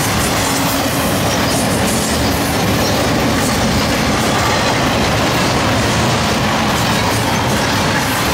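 Freight cars of an intermodal train, flatcars loaded with highway trailers, rolling past close by: a loud, steady noise of steel wheels running on the rails.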